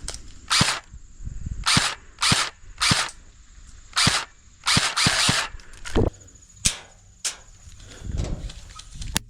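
Airsoft guns firing single shots, about ten sharp cracks at an uneven pace over several seconds, some loud and close and some fainter.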